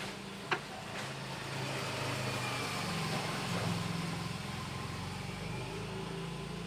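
A motor vehicle's engine hum swelling and then easing off, as a vehicle passing by. There is a single short click about half a second in.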